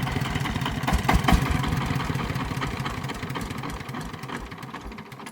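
Single-cylinder diesel engine of a công nông farm truck running with a steady thudding beat and clatter, gradually getting quieter.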